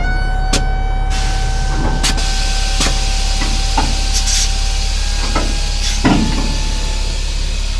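Semi-truck with its sliding fifth wheel being moved: a steady whistling tone that fades out about five seconds in, over a low hum, with scattered sharp clanks and knocks.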